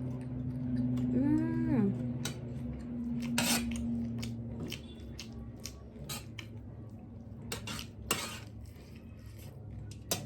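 Eating a crab meal from a plate: a string of sharp clicks and clinks of the food and plate being handled, with a short tone that rises and falls about a second in.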